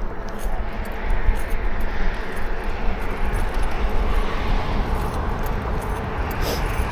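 Riding noise from an e-bike on a bike path: steady rushing and rumbling of wind and tyres, with faint light rattles.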